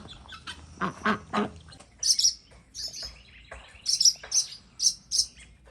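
Ducks quacking briefly, then from about two seconds in a run of short, sharp, high chirps from small parent birds: alarm calls defending their nest of baby birds.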